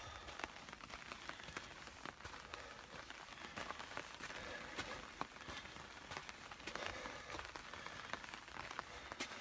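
Light rain falling: scattered raindrops ticking irregularly close to the microphone over a soft steady hiss.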